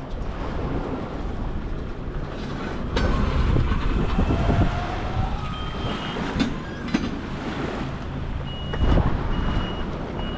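A boat's engine running steadily while it tows a sunken boat, with water and wind noise; it gets louder about three seconds in. Near the end a high electronic beep starts repeating about once a second.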